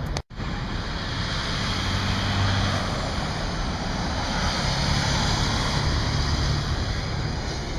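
Steady highway traffic noise, a rushing hiss with a low engine hum underneath that swells and eases slightly as vehicles pass, after a brief cut to silence at the start.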